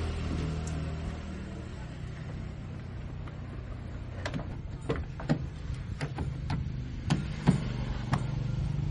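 A car engine running steadily. Over the second half comes a series of sharp clicks and knocks, irregularly spaced.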